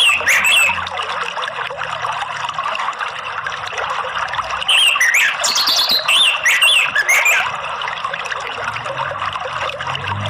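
Orange-headed thrush (anis merah) singing quick, sliding whistled phrases over a steady rush of flowing water: a short burst right at the start, then a longer run of phrases in the middle.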